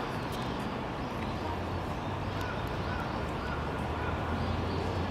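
Outdoor city ambience: a steady wash of distant traffic noise with a low hum that grows a little stronger after about a second and a half.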